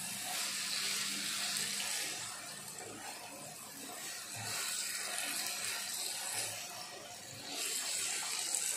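Noodles sizzling in a hot wok as they are stir-fried, the hiss swelling and easing in waves, with a steady low hum underneath.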